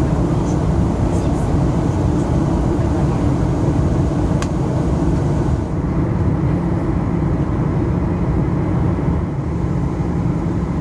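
Steady cabin noise of a Boeing 737 on its approach: engines and airflow with a constant low hum. A single brief click comes about four and a half seconds in.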